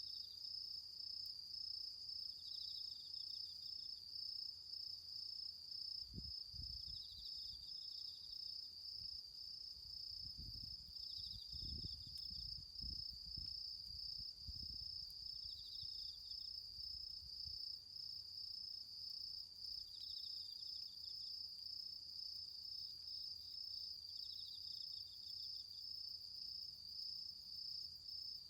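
Autumn insects calling: a continuous high trill, with another insect's short chirping phrase repeating every few seconds. Low rumbles come and go between about six and fifteen seconds in.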